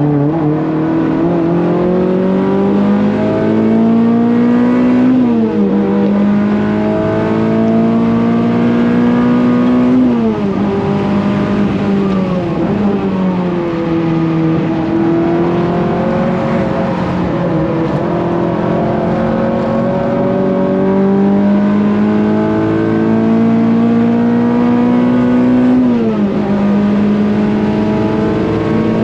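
Renault Clio's engine pulling hard on track: its pitch climbs steadily through each gear and drops sharply at upshifts about five, ten and twenty-six seconds in. Around the middle the pitch sags as the car slows for a corner, then climbs again.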